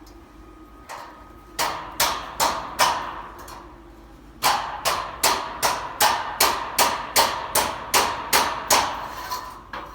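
Repeated hammer blows: a single strike, a short run of four, then a steady run of about a dozen strikes at roughly three a second.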